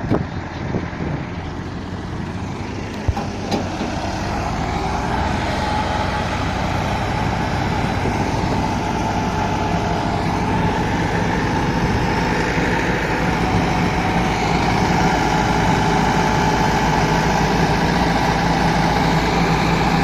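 Tractor diesel engines running hard under load, straining to pull a trolley stuck in sand. The engine note grows steadily louder from a few seconds in.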